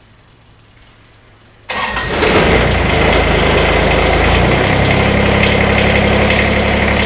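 Kubota tractor's diesel engine coming in suddenly about two seconds in, its note unsteady at first and then settling into a steady run.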